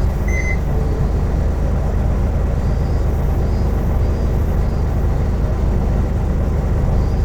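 Interior running sound of a 2003 Isuzu Erga Mio (KK-LR233J1) diesel city bus: engine and road noise with a steady low drone. A short, high electronic beep sounds about half a second in.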